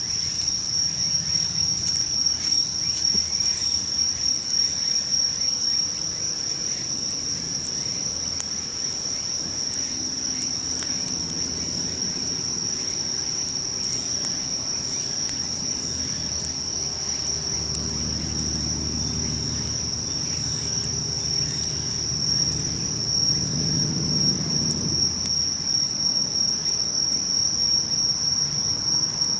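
Insects trilling, one steady unbroken high-pitched trill. A low hum comes in about a third of the way through and fades again near the end.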